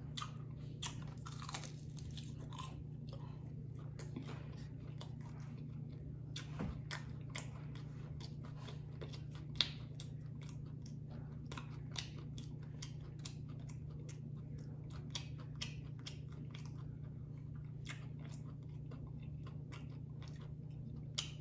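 Close-miked chewing and biting of crunchy fried chicken wings: many small crisp crunches and mouth clicks, with one louder crunch about halfway through. A steady low hum sits underneath.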